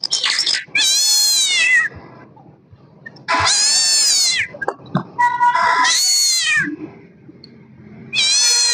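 Kitten meowing repeatedly: four long meows, each rising then falling in pitch, the third shorter, with brief pauses between them.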